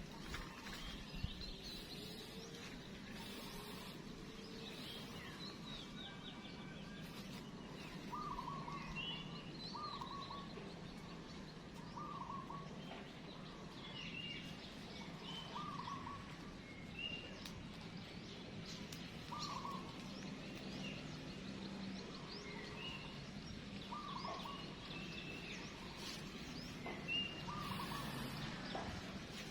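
Wild birds calling outdoors: one bird repeats a short call every few seconds, with other scattered chirps over a steady low background hum.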